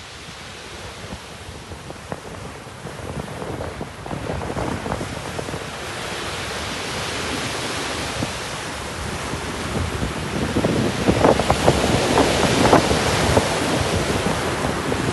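Sea waves washing and breaking, with wind rumbling on the microphone; the surf grows louder in the second half.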